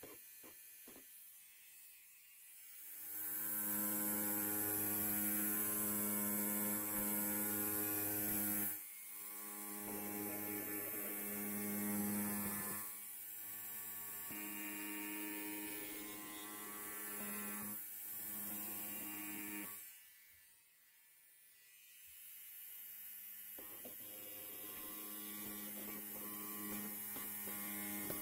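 Electric hair clippers buzzing: a steady low hum that swells and fades several times as the clippers work. It starts a few seconds in and drops away briefly near the middle and again for a couple of seconds later on.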